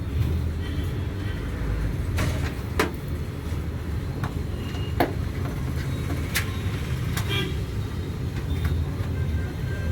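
Steady low rumble of road traffic, with several sharp clicks as the case's front-panel, USB and audio cable connectors are pushed onto the motherboard headers.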